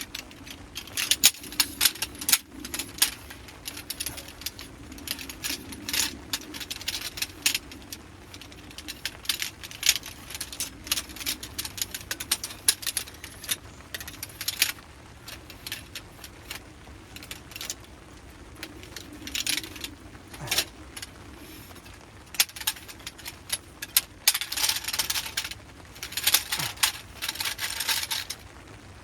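Camping gear being handled during teardown: irregular rustling and small metallic clinks in clusters, busiest near the end.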